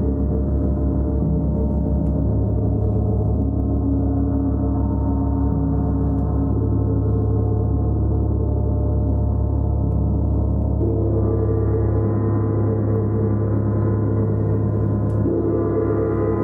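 A gong played continuously in a steady, sustained wash of low, overlapping tones, its pitches shifting as it is struck again, a little past ten seconds in and again near the end.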